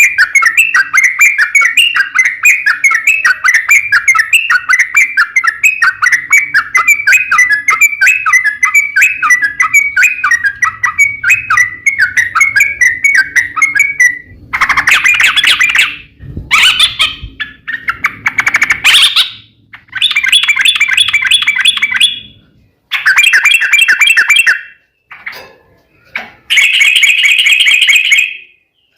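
Yellow-vented bulbul (trucuk) song: a long, rapid run of bubbly chattering notes for about 14 seconds, then several shorter bursts of song with brief gaps between them. It is a recording played as a lure to set captive bulbuls singing.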